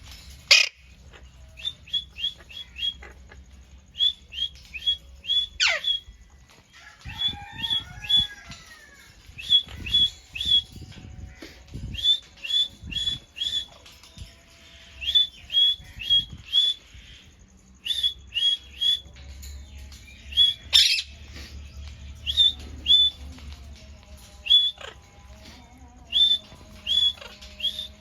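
Ringneck parrot calling: short, sharp, high calls in quick runs of three to five, again and again, broken by a few loud screeches that sweep steeply down in pitch.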